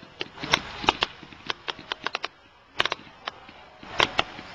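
Fireworks going off at a display: a quick, irregular string of sharp bangs and cracks.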